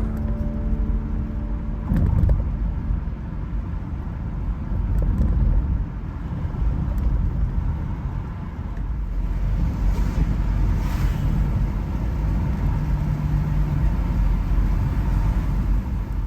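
Car driving: a steady low rumble of engine and tyres on the road. A piano chord fades out in the first two seconds.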